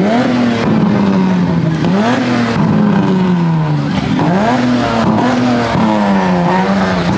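A loud vehicle engine being revved repeatedly while standing: about five times the pitch jumps up quickly, then falls back slowly.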